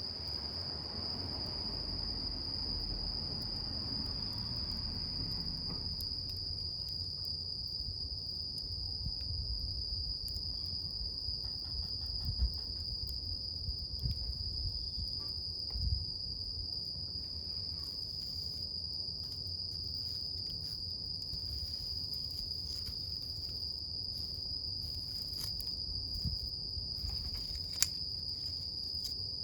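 Wood campfire burning with a low rumble and a few sharp crackles, the loudest near the end, under a steady high-pitched chirring of insects.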